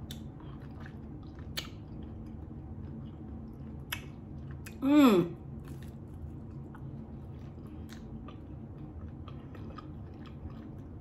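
A person chewing and biting a chicken-and-cheese quesadilla and a pickle, close to the microphone, with scattered small clicks of mouth noise. About five seconds in comes a loud, short, falling hum of enjoyment.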